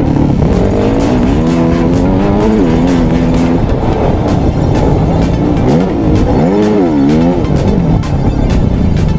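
Dirt bike engine revving up and down, its pitch rising and falling sharply about two thirds of the way through, with music with a steady beat over it.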